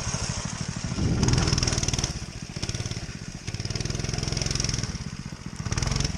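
Motoland RT200 dirt bike's single-cylinder engine running under a working throttle, its note swelling and easing three times, about a second in, around the middle, and near the end.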